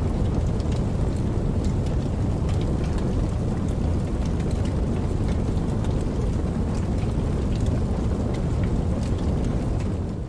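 Steady rain: an even, dense rushing hiss with a deep rumble beneath it and scattered sharp ticks of individual drops.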